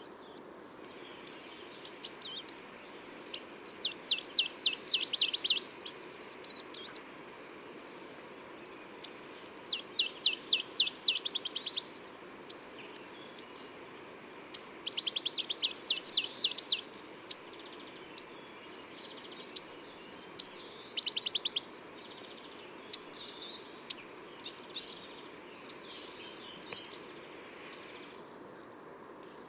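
Small garden songbirds calling throughout with short, high chirps, broken four times by rapid trills of quickly repeated falling notes, each lasting a second or two.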